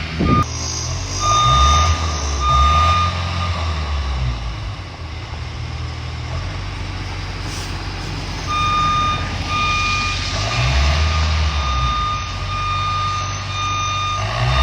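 A heavy construction machine's reversing alarm beeps about once a second over its diesel engine, which revs up and down. The beeping stops about three seconds in and starts again after about eight and a half seconds.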